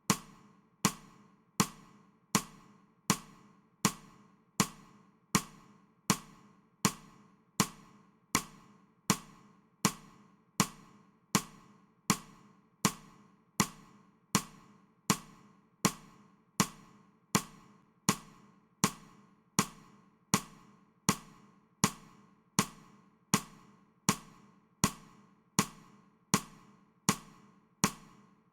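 Metronome ticking steadily at 80 beats per minute, one sharp click about every three-quarters of a second.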